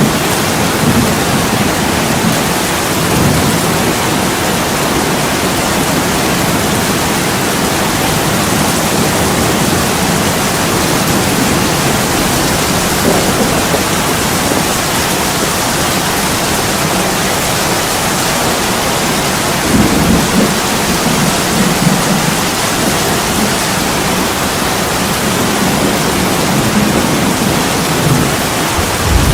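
Heavy rain pouring steadily on an attic window's glass, a dense even hiss, with deep low rumbles swelling up a few seconds in, about two-thirds of the way through, and again at the end.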